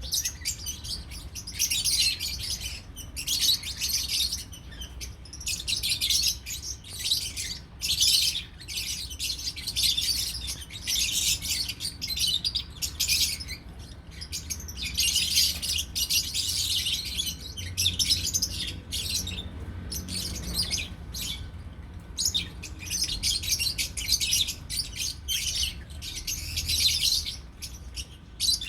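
Group of lovebirds chattering: many shrill, high chirps overlapping in bursts of a second or two, with brief pauses between them.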